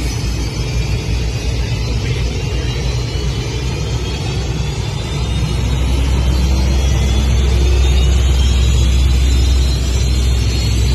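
Powerboat engine running at speed, a steady low drone with a faint rising whine, growing louder about halfway through.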